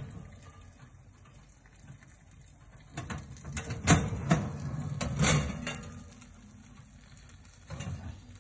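A quick run of knocks and clicks, as of objects being handled and set down, about three to six seconds in. A couple of fainter single clicks come before and after.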